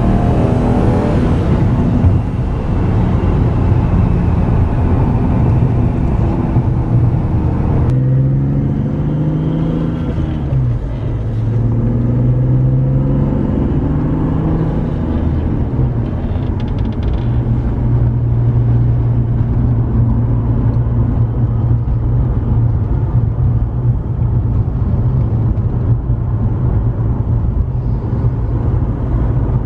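1998 BMW E36 M3's straight-six engine pulling under acceleration with heavy road and wind hiss. About eight seconds in the hiss drops away suddenly; the engine pitch rises and falls a few times, then holds a steady drone at constant speed.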